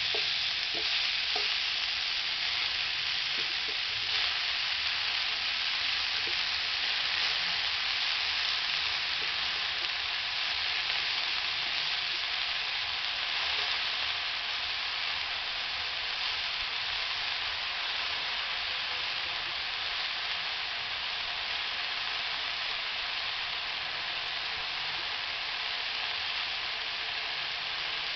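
Chopped water spinach sizzling in hot oil in a kadai: a steady frying hiss that slowly softens, with a few light spatula scrapes in the first few seconds.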